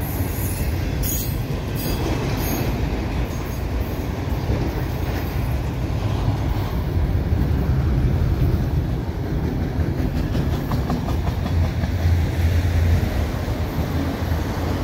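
A freight train of autorack cars rolling steadily past, its wheels on the rails making a continuous low rumble, with a few sharp clicks in the first few seconds.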